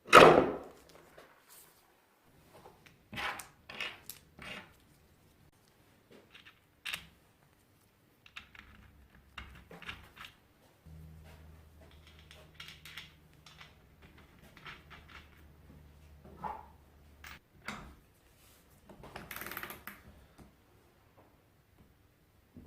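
Hand work on a workbench: a loud knock at the start, then scattered clicks, taps and knocks. A low steady hum runs for about six seconds in the middle.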